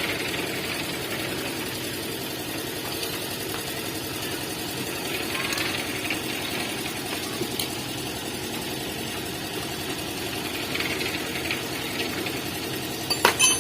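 A steady mechanical drone from a running machine, with a few light clicks and a sharper metallic clink near the end.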